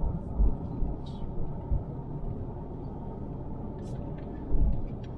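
Car driving on the road, heard from inside the cabin: a steady low rumble of tyre and engine noise, with a dull thump about half a second in and another near the end, as from bumps in the road.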